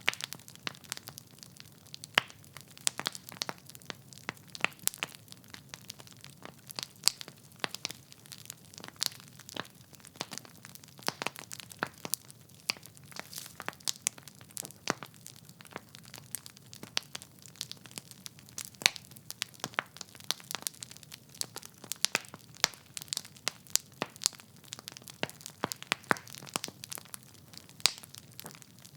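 Burning logs in a fireplace crackling and popping, with many sharp, irregular pops over a faint low rumble of the flames.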